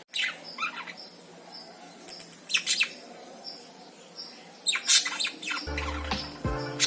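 Pet lovebirds chirping, clusters of short high calls every couple of seconds. Music with low steady notes comes in near the end.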